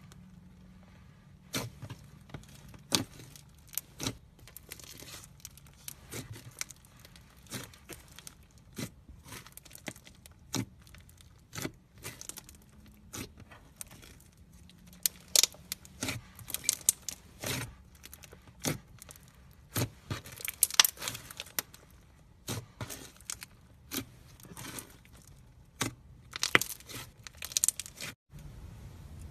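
Slime mixed with foam beads being worked, giving irregular sharp crackles and pops, some in quick clusters.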